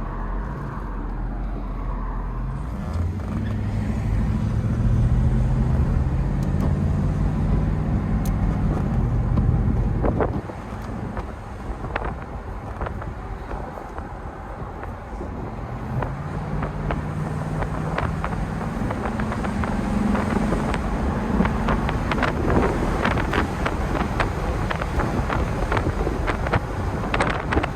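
Mercedes-Benz 560SL's V8 pulling under acceleration, its pitch rising, then falling away about ten seconds in and rising again, with wind and road noise.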